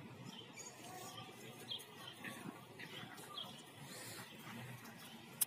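Small birds chirping faintly in short, scattered calls, with a single sharp click near the end.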